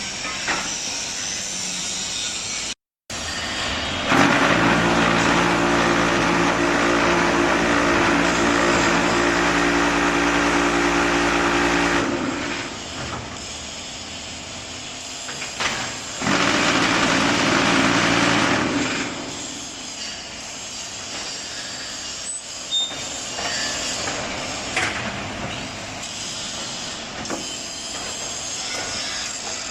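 Concrete block-making machine running. About four seconds in, a loud, steady-pitched vibrating hum starts and lasts roughly eight seconds, fitting the vibration table compacting a mould. A second loud, noisy stretch of about two and a half seconds follows, with lower machine noise and occasional clanks between and after.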